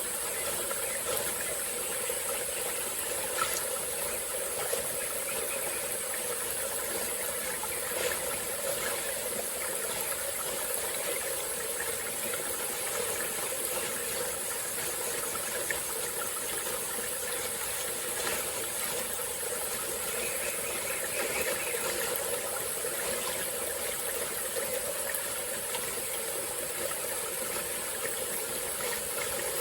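Small tropical-forest stream flowing: a steady rush of running water with a constant high-pitched hiss above it and a few faint small clicks.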